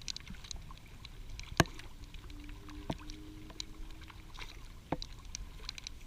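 Scattered raindrops tapping on a paddleboard and a camera's waterproof housing: irregular light ticks, with one sharper click about one and a half seconds in.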